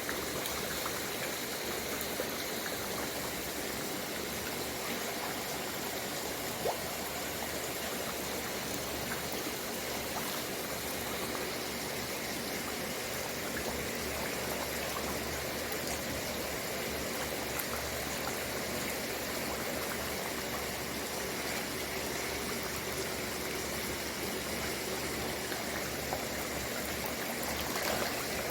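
Steady, unbroken rush of splashing water.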